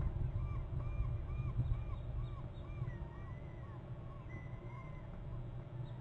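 A bird calling a series of about ten short, arched notes, roughly two a second and fading away, with a couple of higher drawn-out notes midway, over a steady low rumble.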